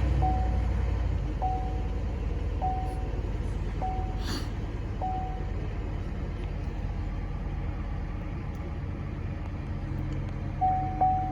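2007 Chevrolet Impala SS's 5.3-litre V8 idling steadily just after a cold start, its level easing slightly as it settles. A short electronic warning chime sounds about every second and a quarter, five times at the start and again near the end.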